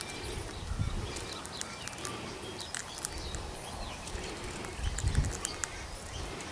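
Australian king parrot feeding from a hand: irregular sharp clicks of its beak working the food. A brief low rumble about five seconds in.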